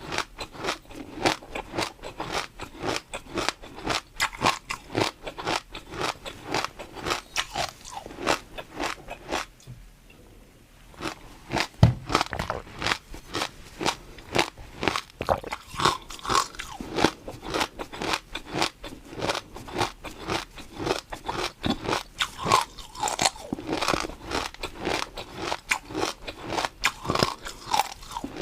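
Close-miked crunchy chewing and biting, with rapid crisp crackles that stop for about two seconds, a low thump about twelve seconds in, then steady chewing again.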